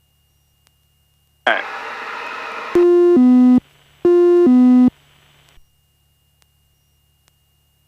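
Electronic two-tone alert through the aircraft headset audio: a higher buzzy note dropping to a lower one, sounded twice in a row, with a brief word on the intercom just before.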